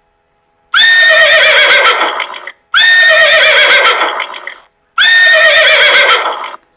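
A recorded horse whinny played three times in a row. Each call lasts about two seconds and has a wavering pitch that falls.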